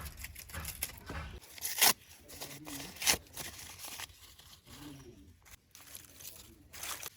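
Scattered sharp knocks and clicks with rustling, as of things being handled, the two loudest knocks about two and three seconds in, and a few faint short animal calls.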